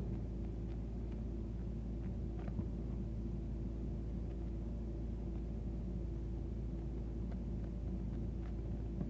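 Steady low background hum, with a few faint short ticks scattered through it.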